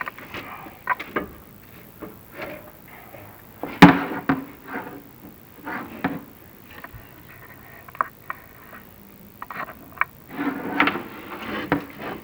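Chimney inspection camera and its push rod knocking and scraping against the flue walls as it is lowered down the chimney, with irregular clicks and rubs and one sharp knock about four seconds in.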